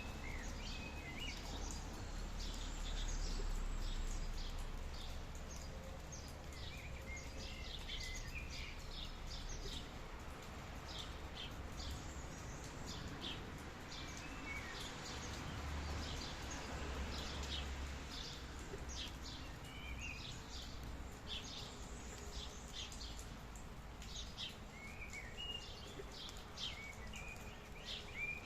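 Steady hiss of rain, with birds chirping now and then in short calls scattered through.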